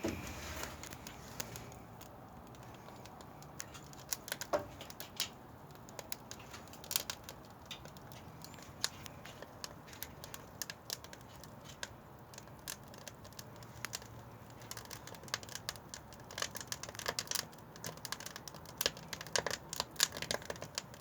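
Debarked pine firewood crackling and popping as it burns in a wood-fired kiln, in irregular sharp pops over a low steady background, thickening near the end.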